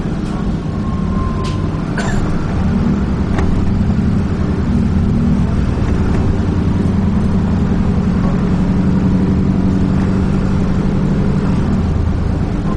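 Diesel engine of a Dennis Trident 2 double-decker bus running steadily while under way, heard from on board, with a few short rattles or knocks in the first few seconds.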